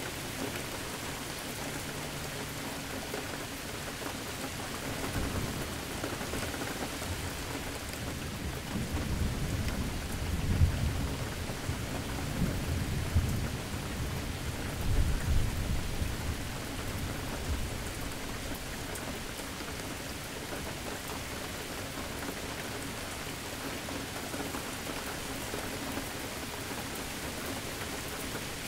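Steady rain falling, with a long roll of thunder rumbling through the middle, building about five seconds in, loudest between about nine and sixteen seconds, then fading back to the rain.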